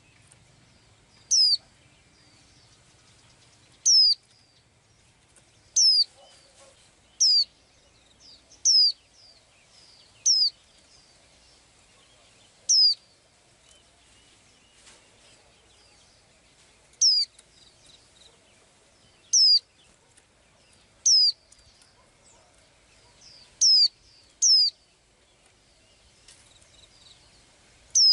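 A small bird calling: about a dozen short, sharp, high notes, each sweeping quickly downward in pitch, repeated every couple of seconds with a longer pause around the middle.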